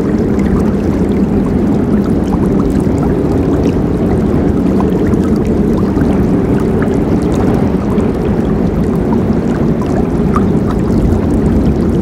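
Forest river flowing: a steady, full rush of water with small splashes ticking through it.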